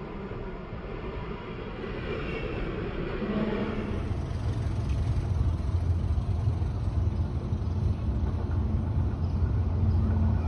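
Diesel train rumbling along the track, growing steadily louder, with a deep low hum setting in about four seconds in.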